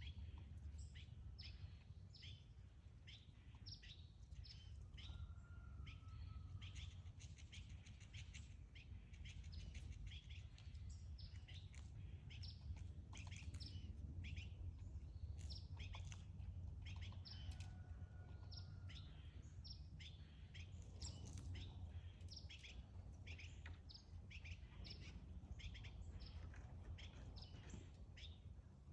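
Faint chorus of small birds chirping in many short, quick calls, with a couple of longer, level whistled notes, over a steady low background rumble.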